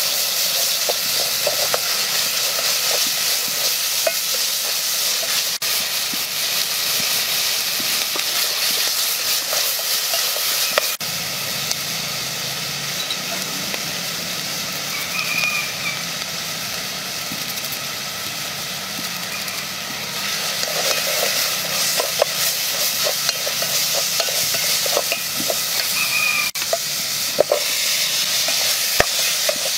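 Onions and spices sizzling in hot oil in a large metal pot, a steady frying hiss, with a wooden spoon scraping and knocking against the pot as it stirs.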